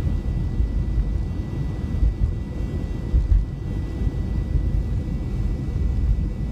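Steady low rumble of car road noise heard inside the cabin: engine and tyres on a snowy highway. A faint steady high whine sits above it.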